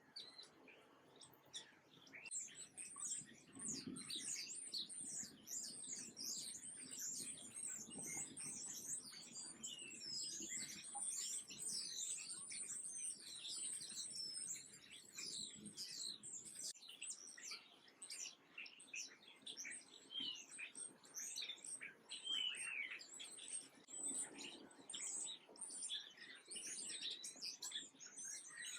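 A chorus of small songbirds chirping and twittering, many short high calls overlapping, growing dense about two seconds in.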